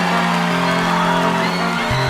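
Live band playing loud instrumental music, with a low bass note held through most of it that changes just before the end.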